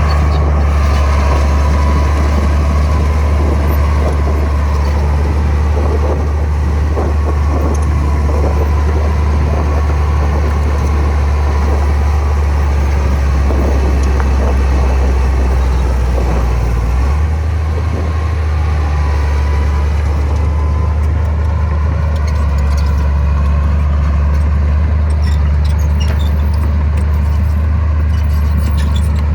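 Heavy diesel engine of earthmoving machinery running steadily with a deep drone; its note shifts about two-thirds of the way through. Light metallic clicking and clinking join in the last several seconds.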